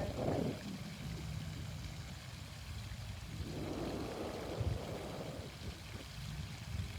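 Fountain water splashing steadily, with one long breath out about halfway through as part of a deep shoulder-shrug breathing exercise.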